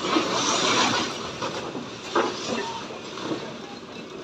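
Bricks being unloaded from a tractor trolley, clattering against one another: a rattling rush in the first second, then single knocks about once a second, growing quieter.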